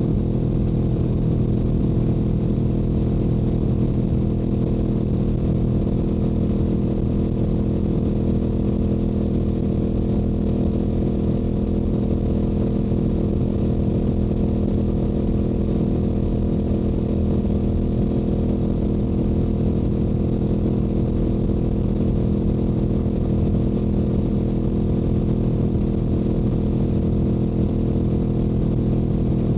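Stock exhaust of a Yamaha YZF-R7's 689 cc parallel-twin engine, running steadily at a constant cruising speed on the highway. The pitch holds level throughout, with no shifting or revving.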